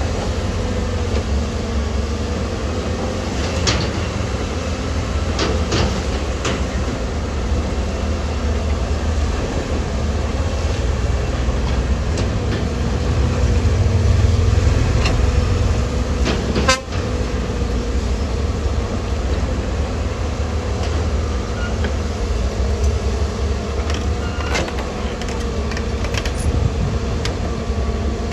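Diesel engine of heavy earthmoving machinery running steadily under load, a deep rumble with a constant drone, with scattered metallic clanks and knocks.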